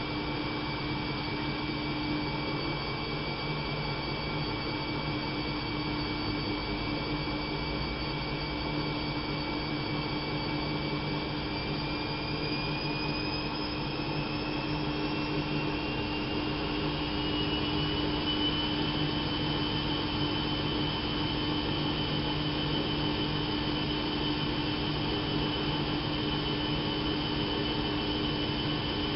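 Bauknecht WAP 6460 washing machine running steadily with a motor hum and whine. About halfway through, the whine rises in pitch and the sound gets a little louder as the drum speeds up.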